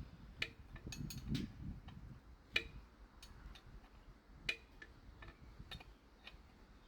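Open-end wrench clicking and clinking against a metal fitting as it is worked and repositioned: irregular sharp metallic clicks, the loudest about two and a half and four and a half seconds in, with some low handling noise early on.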